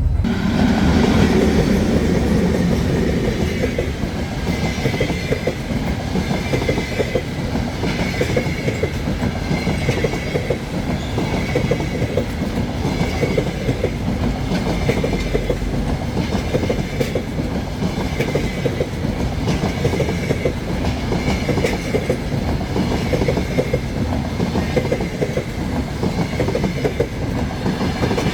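Passenger train running along the track: a steady rumble of wheels on rails with a faint repeating beat.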